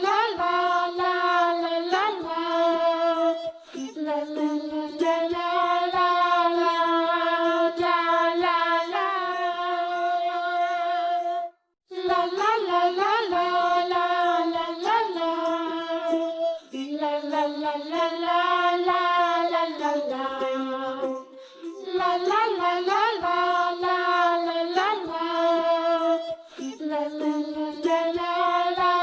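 Background music: a child's voice singing a nursery song, with a brief break about twelve seconds in.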